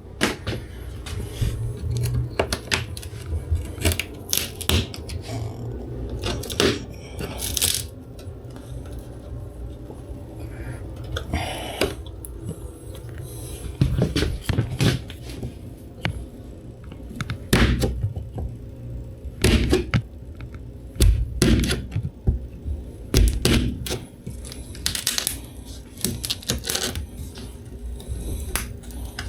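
Hand work pulling material away from the inside wall of an ambulance body: irregular scrapes, tearing and sharp knocks and clicks, some loud, over a steady low hum.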